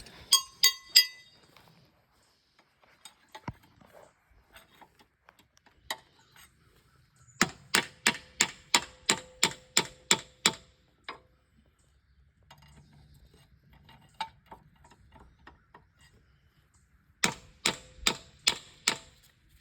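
Hammer blows on steel, driving a pin through the lined-up mounting holes of a Bobcat E35 excavator's thumb cylinder. Sharp metallic clangs with a short ring: three at the start, a quick run of about a dozen at roughly three or four a second in the middle, and about five more near the end.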